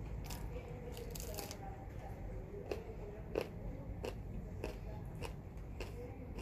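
Close-up eating sounds: a person chewing a soft folded tortilla, with irregular small wet clicks and crunches about every half second and two louder ones near the middle.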